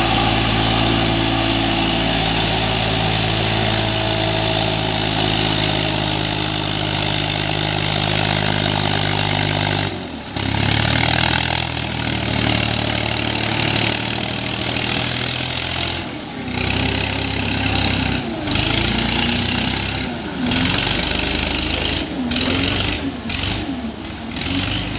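New Holland 3037 tractor's diesel engine running steadily, working to climb in dry sand. About halfway through the sound breaks off briefly, then comes back again and again with several short dropouts, the engine note shifting between them.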